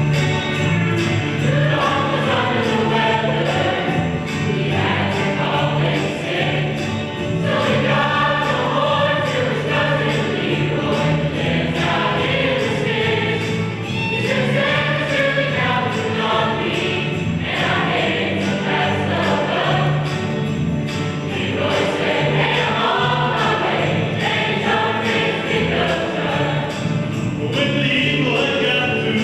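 A choir singing, holding long sustained notes over a steady low accompaniment.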